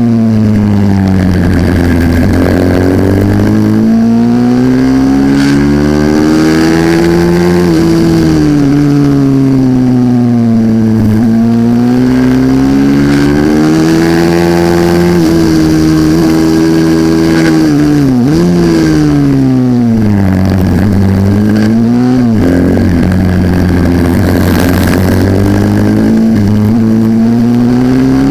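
A Symoto 140cc pit bike engine at full race throttle. Its note climbs as it revs out, then drops sharply as the throttle shuts for the corners, over and over.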